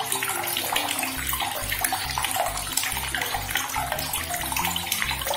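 Water running steadily from a tap, a continuous splashing hiss that starts abruptly.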